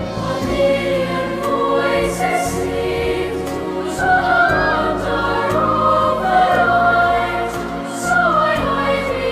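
Choir singing with instrumental accompaniment: sustained voices with vibrato over steady low notes.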